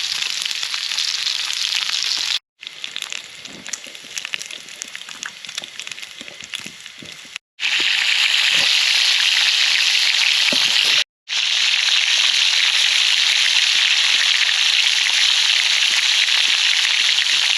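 A campfire crackling and popping under a dense, steady chorus of night insects. The sound cuts out completely for a moment three times. The crackle is clearest in a quieter stretch early on, and the insect hiss is loudest in the second half.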